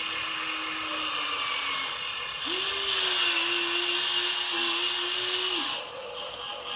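Small electric motor and gearbox of a toy RC dump truck whining in two runs: the first stops about two seconds in, and the second starts half a second later and cuts off near the end.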